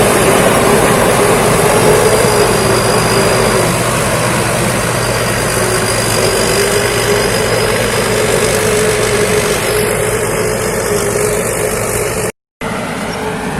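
Thai Seng Kaset rice combine harvester running loud and steady while harvesting, its engine and machinery making a continuous drone with a held whine. The sound cuts out for an instant about twelve seconds in.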